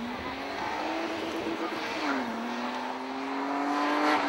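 BMW E30 sedan's engine revving under throttle while the car drifts. The pitch climbs, drops sharply about two seconds in, then climbs again.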